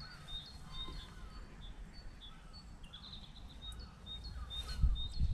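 Small birds singing and calling: repeated short high chirps and falling whistled notes, over a steady low rumble. A few louder low thumps come near the end.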